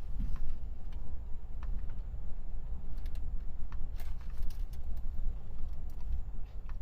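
Strong wind buffeting the microphone as an uneven low rumble, with scattered light clicks and taps.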